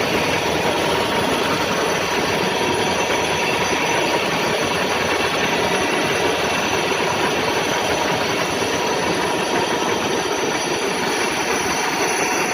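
WMW Heckert GFLV 250 x 2000 thread milling machine running, a steady mechanical whir with faint steady tones mixed in.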